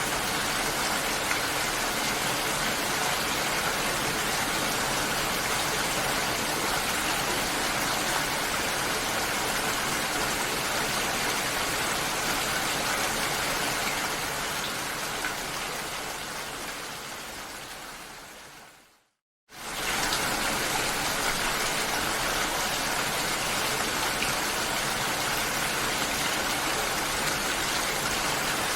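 Steady rain with an even hiss. About 14 seconds in it fades out gradually, goes silent for half a second, then cuts straight back in at full level.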